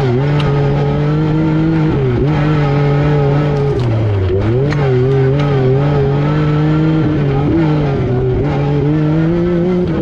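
Yamaha YXZ1000R SS side-by-side's three-cylinder engine running under load; its pitch dips briefly about two seconds in and again about four seconds in, then climbs back. A few sharp clicks are heard.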